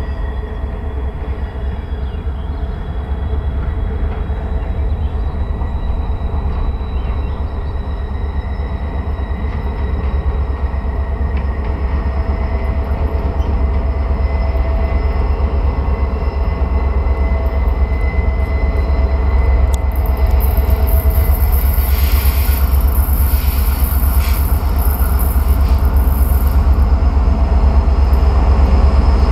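Alaska Railroad EMD SD70MAC diesel-electric locomotive approaching with its train, the diesel engine rumbling steadily and growing gradually louder as it nears. A high hiss joins about two-thirds of the way through.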